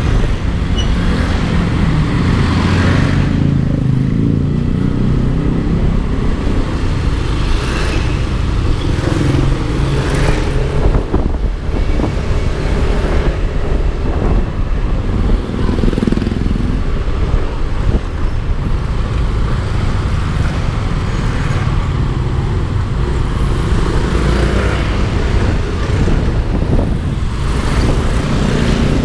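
Yamaha Aerox 155 scooter's single-cylinder engine running under way, its pitch rising and falling a few times with the throttle, over steady road and traffic noise.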